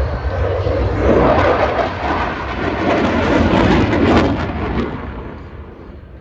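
Jet roar from a formation of Alpha Jet trainers passing overhead. It swells about a second in, peaks around four seconds and fades away near the end.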